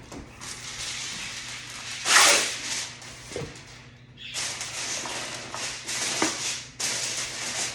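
Aluminium foil crinkling and rustling as it is torn and pressed over a roasting pan, with a loud burst about two seconds in and a longer crinkly stretch after a short pause.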